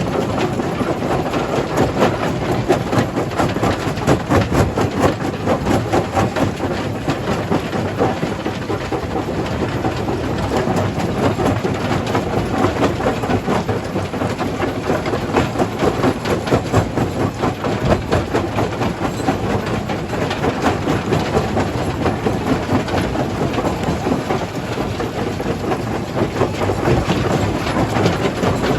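Primary jaw crusher crushing stone: a steady heavy machine rumble packed with a constant rattle of small knocks and cracks from the rock, with no pauses.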